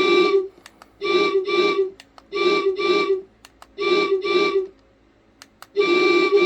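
Diesel locomotive horn from the class 08 model's DCC sound system, played through its on-board speaker: short steady-pitched blasts, three pairs between two single blasts, the last one longer.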